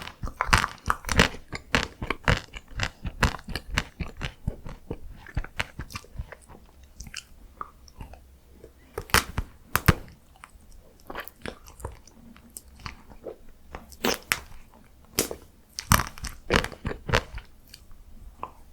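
Close-miked biting and chewing of chocolate and matcha ice cream, crunching and crackling in irregular bites, with a few louder crunches in the second half.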